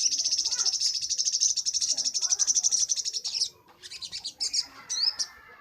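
Little spiderhunter (sogok ontong) singing a long, very fast rattling trill of high notes that stops about three and a half seconds in. Softer scattered chirps and a short rising whistle follow near the end.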